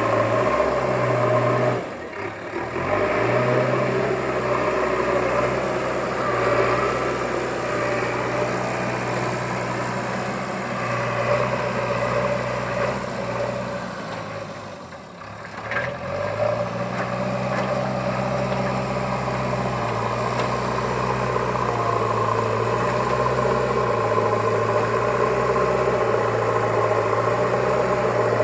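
A steady engine-like drone whose low hum holds one pitch, then steps to another. It dips out briefly about two seconds in and again around fifteen seconds.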